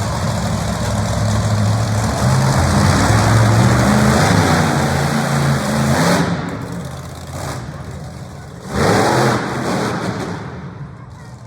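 A loud vehicle engine running, strong and steady for the first six seconds, then dropping away; about nine seconds in it revs up sharply, rising in pitch, and falls back.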